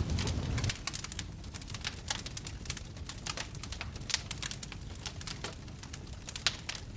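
Wood fire crackling in a fireplace: sharp, irregular pops and snaps throughout. A low rumble of flame drops away under a second in.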